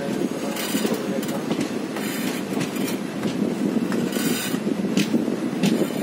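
Passenger train running on curving track: a steady rumble of wheels on rail, with several brief, sharper high-pitched noises.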